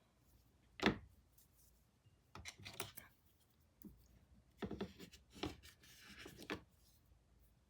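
Paintbrush scratching across canvas in short, irregular strokes, with one sharper knock about a second in.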